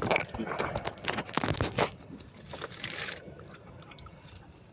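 Quick knocks, scrapes and rustles with some water sounds, thickest in the first two seconds and fading after about three.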